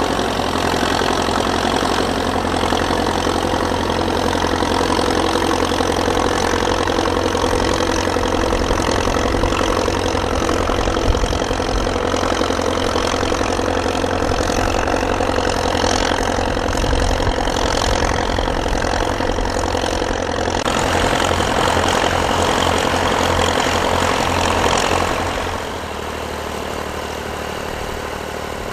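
Vintage tractor engine running steadily, turning quieter about three seconds before the end.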